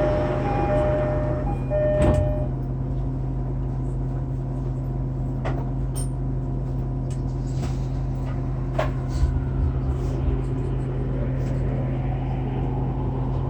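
JR East E231-800 series commuter train running just after leaving a station, heard inside the car: a steady low motor and running hum, with the VVVF inverter's stepped tones during the first couple of seconds of acceleration and a faint rising whine later. A few sharp knocks from the wheels over rail joints come at irregular intervals.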